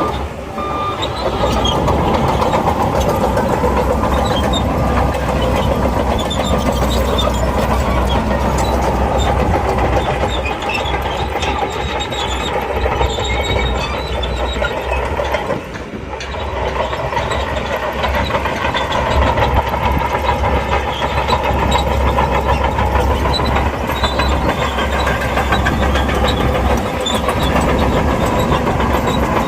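SHANTUI crawler bulldozer at work: its diesel engine runs steadily under load while the steel tracks clatter. There is a brief dip in the sound about halfway through.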